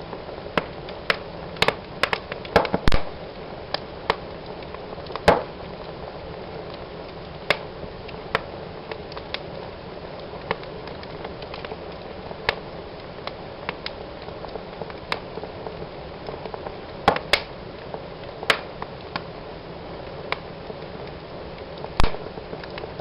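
Fire burning in a fireplace: a steady soft hiss under irregular sharp crackles and pops. The pops are loudest in a cluster about two to three seconds in, and again with a single loud pop near the end.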